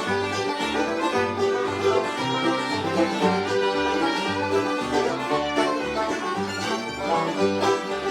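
Bluegrass band playing an instrumental lead-in with fiddle among the strings, over a steady low bass note about twice a second.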